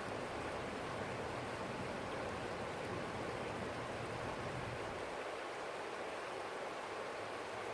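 A small stream flowing, a steady rushing of water. A low rumble underneath drops away about five seconds in.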